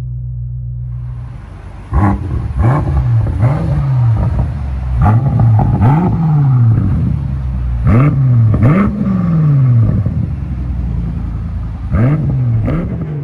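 2023 BMW X5 M Competition's twin-turbo V8 heard through a Kinney's Street Demon cat-back performance exhaust, idling and then free-revved in a series of quick throttle blips, some in pairs. Each blip rises sharply in pitch and falls back to idle.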